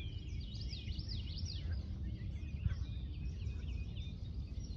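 Bald eagles calling from a riverside tree: a run of quick, high, thin chirps repeated over and over, over a steady low rumble.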